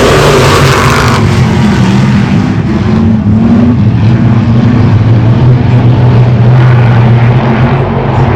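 Race car engines running on the track, a steady engine drone with small rises and falls in pitch, with a rushing noise in the first second or so.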